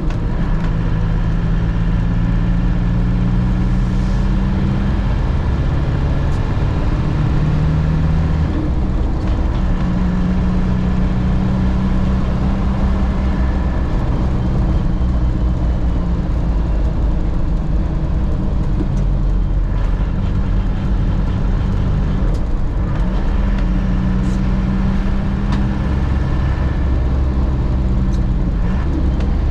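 1998 Land Rover Defender driving, heard from inside the cab: steady engine and road noise, with the engine note shifting up and down in pitch a few times.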